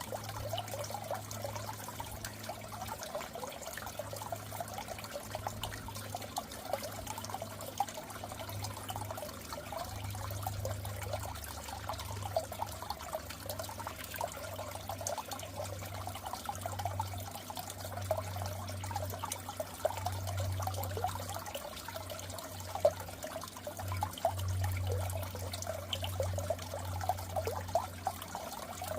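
Water trickling and bubbling steadily in a goldfish tank, over a constant low hum.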